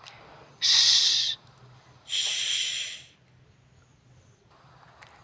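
A voice making an unvoiced hissing consonant sound twice, each held just under a second, as phonics pronunciation practice of an isolated speech sound.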